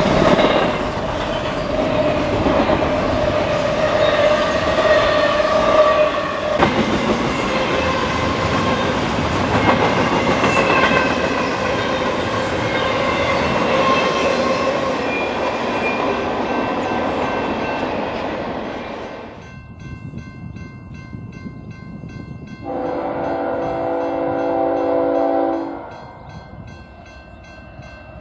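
Double-stack intermodal container train passing at speed: steel wheels rolling and clattering on the rails with wavering squeals. About two-thirds of the way through it cuts off to a quieter scene where an approaching freight locomotive sounds one long blast of its multi-note air horn.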